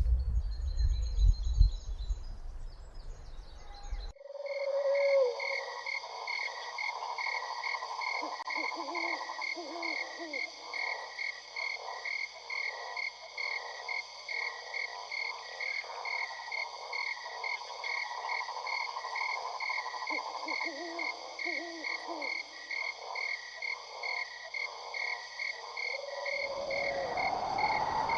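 A frog chorus: dense, rapid pulsing croaks with steady, evenly pulsed high chirping above them. It cuts in suddenly after a few seconds of low rumbling noise and gives way to rumbling again near the end.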